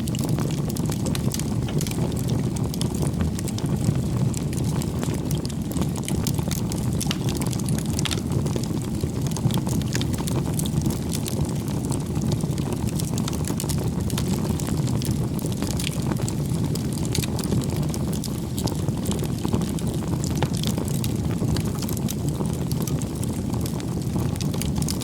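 Bonfire of firewood burning: a steady low rumble of flames with frequent small crackles and pops from the wood.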